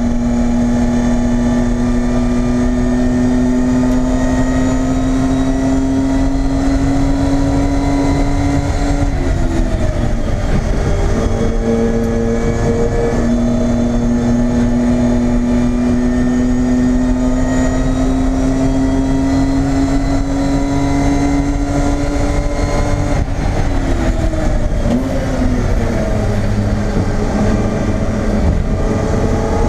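BMW E30 race car's engine heard from inside its stripped-out cabin, pulling hard under load, its pitch climbing slowly for long stretches. The note breaks about nine seconds in and falls away with short jumps around twenty-three seconds in, as it lifts off and changes gear, then climbs again near the end.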